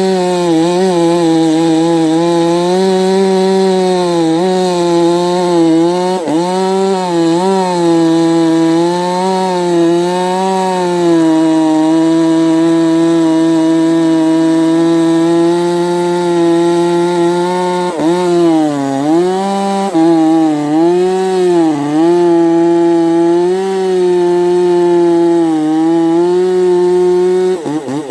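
Dolmar 5105 two-stroke chainsaw with a modified muffler running at full throttle through wood, its high steady note dipping several times as the chain loads up in the cut. Near the end the pitch falls away steeply as the throttle is released.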